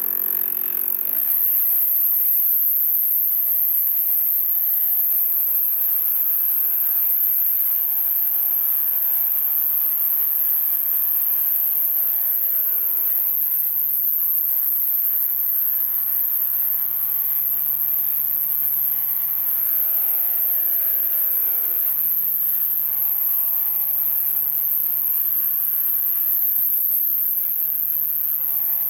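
Gasoline chainsaw running at high revs while cutting through logs, its engine pitch sagging under load and recovering again and again, with two deep bog-downs about thirteen and twenty-two seconds in.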